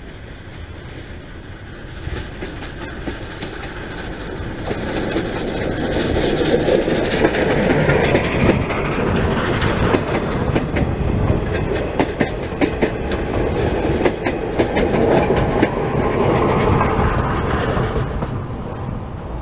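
Steam-hauled passenger train passing, with a steam locomotive at each end of the coaches. It is a loud rumble that builds over the first several seconds, with many sharp clicks as the wheels run over the rails, and it fades away near the end.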